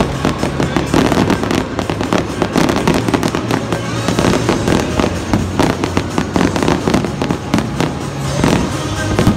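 Aerial fireworks bursting in quick succession: dense, overlapping bangs and crackling with no break.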